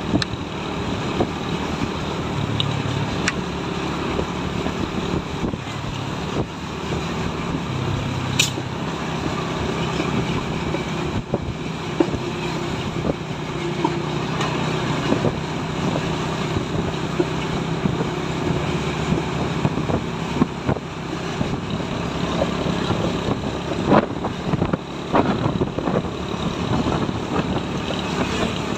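Truck engine running steadily under road noise, with scattered knocks and rattles.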